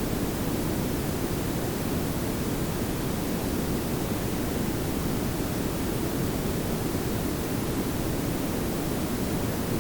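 Synthetic pink noise layered with brown noise: a steady, unchanging hiss over a deep low rumble.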